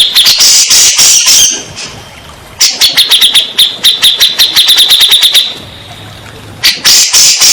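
Cak jenggot song played as a lure track to set a caged cak jenggot singing: loud, fast trills of high, sharp repeated notes. The trills come in three bursts with short pauses between them.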